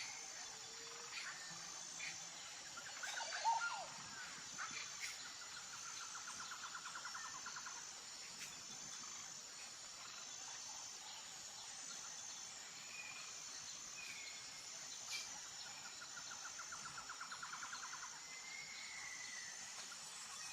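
Outdoor nature ambience: a steady, high-pitched insect chorus with a faint even pulse, with scattered short bird chirps and two buzzy trills of about two seconds each.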